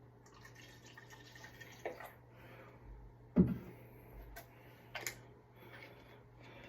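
A short run of water or liquid pouring, then three separate knocks of things being set down or handled, the loudest a dull thud about three and a half seconds in.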